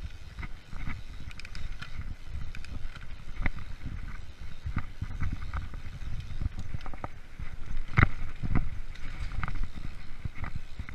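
Freeride mountain bike rolling over a rough forest trail: a steady low rumble with frequent rattles and knocks from the bike, the sharpest about eight seconds in.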